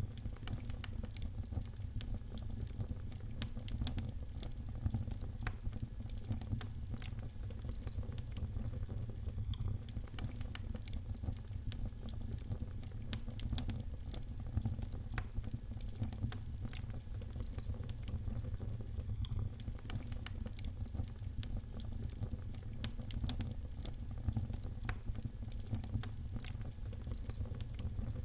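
Wood fire in a fireplace crackling, with many small sharp pops scattered irregularly over a steady low rumble of the burning.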